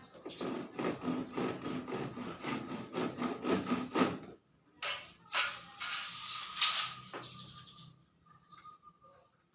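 Rhythmic scraping, about five strokes a second for about four seconds; after a short pause, a louder rasping stretch with a sharp knock near its end.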